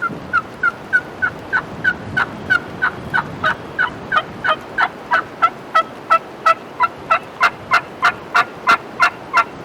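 A long, evenly spaced run of turkey yelps, about three a second, each note breaking from a high pitch to a lower one; the run grows louder toward the end.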